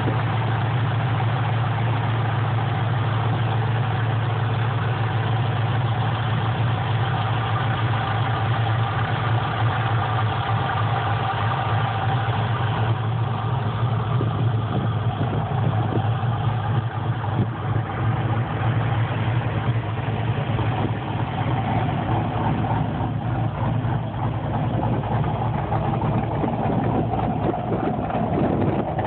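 Supercharged V8 engine idling steadily, a low even drone with no revving.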